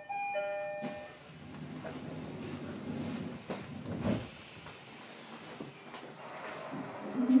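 A two-note descending chime sounds twice at the start. Then comes the steady hiss and rumble of a standing E129 series electric train, with a faint high whine falling slowly and a few knocks. A short loud low tone sounds near the end.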